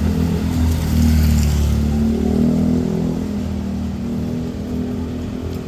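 A motor vehicle's engine running close by as it passes, loudest about a second in and then slowly fading.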